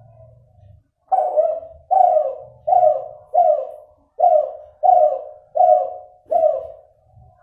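Derkuku (spotted dove) cooing, an F2 cross of a Kelantan derkuku with a cuhu hen: after a quiet first second comes a run of eight short coos a little under a second apart, each falling in pitch, then a faint trailing note. The breeder rates this bird's voice as still nasal, with an inconsistent number of end notes.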